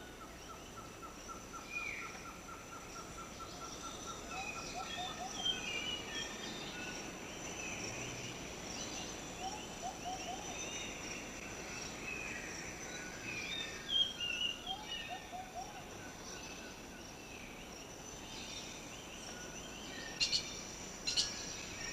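Tropical rainforest ambience: a steady high insect drone under scattered bird calls and chirps. A pulsed trill runs through the first few seconds, and a few sharp ticks come near the end.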